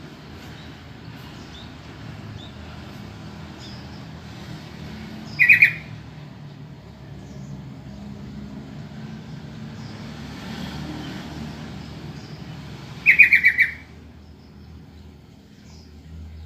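Yellow-vented bulbul (trucukan) giving two short, loud calls, each a quick bubbling run of notes, about eight seconds apart. A steady low rumble runs underneath.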